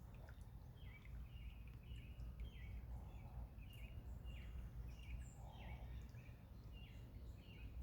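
A bird calling in a run of short, falling chirps, about two a second, faint over a low steady rumble.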